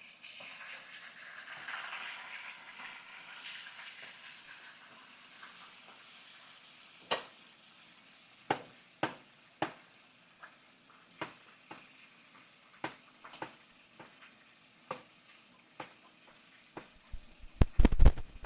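Fish frying in hot oil: a sizzle for the first few seconds that dies down into sharp separate pops and spatters, about one every second. A burst of loud knocks near the end.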